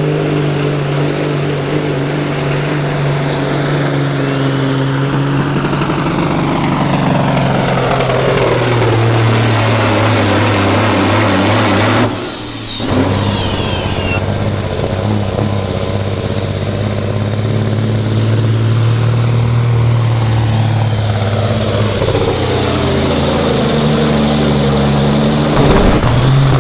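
A diesel semi truck's engine runs loud under heavy load while pulling a sled, its pitch slowly falling as it lugs down. About halfway through it drops out for a moment, then pulls on steadily and rises again near the end.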